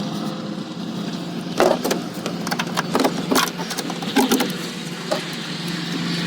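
A series of sharp clicks and knocks from hands working on parts in a truck's engine bay, as fittings are unclipped and handled. The clicks come in a cluster from about one and a half seconds to five seconds in, over a steady low hum.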